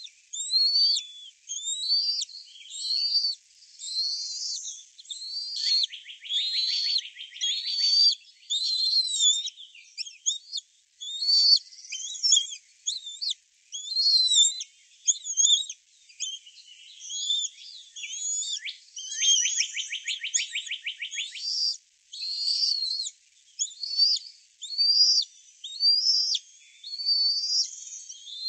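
Birds calling and singing: short high-pitched phrases about once a second, overlapping, with two rapid buzzy trills, one about a quarter of the way in and one about two thirds of the way in.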